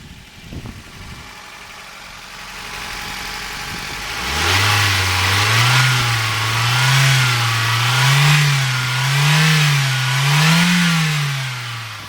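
Toyota 3S-FE 2.0-litre inline-four petrol engine running, revved up and let back five times in a row from about four seconds in. Each rev goes a little higher than the last, then it settles back toward idle near the end, during a pre-sale running check.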